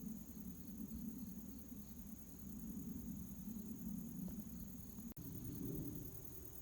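Crickets trilling steadily over a louder low rumble, with a sudden brief dropout about five seconds in.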